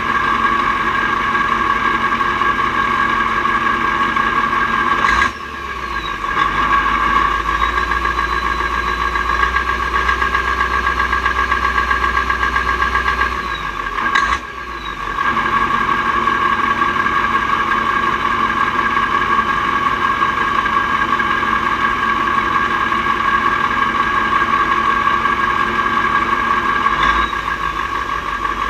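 Mack R-series truck's V8 diesel engine running while driving. Its sound drops briefly twice, about five and fourteen seconds in, and picks up again, as at gear changes on its Roadranger gearbox.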